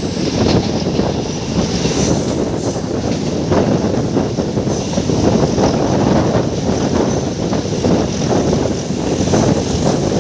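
Meter-gauge passenger train running steadily, a continuous rumble of wheels on the track with a few faint clicks, heard from an open coach doorway.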